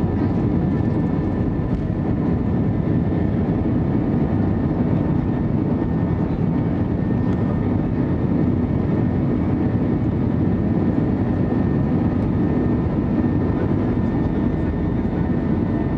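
Airbus A320's jet engines at takeoff thrust, heard from inside the passenger cabin: a steady, deep noise with a few faint, steady whining tones above it.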